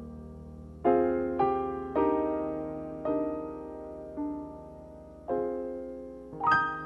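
Piano playing slow chords, each struck and left to ring and fade, about one a second, with no voice.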